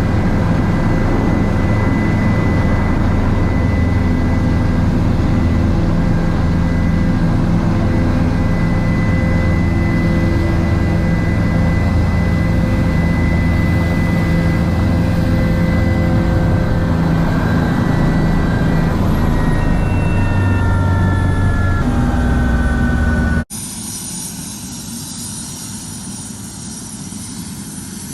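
Helicopter engine and rotor running steadily and loud, with a constant whine over a deep rumble. Several seconds before the end the whine falls in pitch, then the sound cuts off abruptly to a quieter steady noise.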